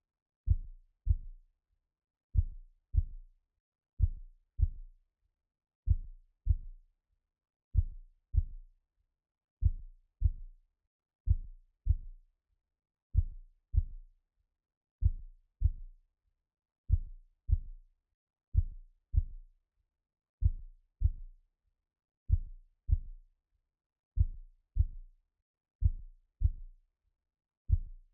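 Heartbeat sound: soft low thumps in lub-dub pairs, one pair roughly every two seconds, repeating steadily.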